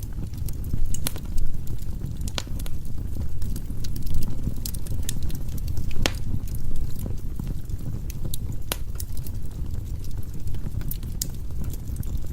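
Firewood burning in a fireplace: a steady low rumble of the flames with scattered sharp crackles and pops, the strongest about 1, 2.5, 6 and 9 seconds in.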